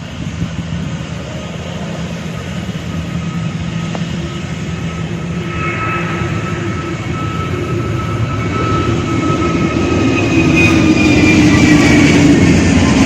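Jet airliner engines growing steadily louder as the aircraft approaches. About halfway in, whining tones come in over the rumble and slide slightly lower in pitch.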